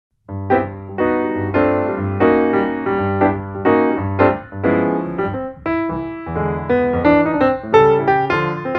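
Intro music played on piano or keyboard: a steady bass with a melody of repeated chords and notes.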